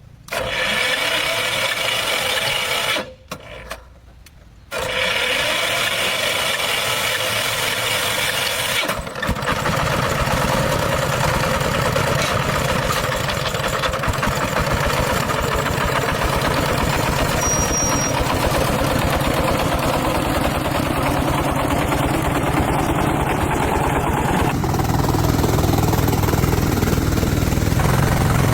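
An engine is cranked twice, with a short break between the attempts. About a third of the way in it catches and keeps running with a steady low chug.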